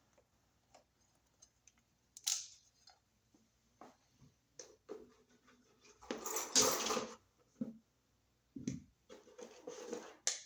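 Handling sounds of wires and a wall receptacle being worked in an electrical box: scattered small clicks and scrapes, with a louder scraping rustle lasting about a second about six seconds in.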